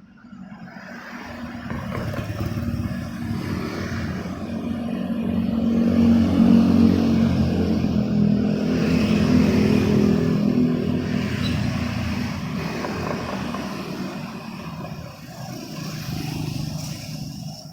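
A motor vehicle's engine passing by: it grows louder over several seconds, peaks about halfway through, then fades away, with a smaller swell near the end.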